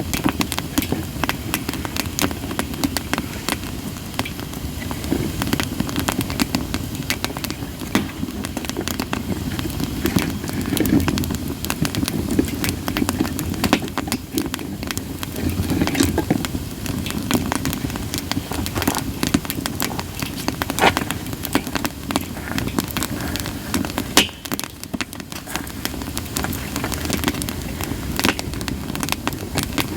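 Campfire of split sawtooth oak (kunugi) logs crackling and popping in many irregular snaps, over a steady low rushing sound from the flames.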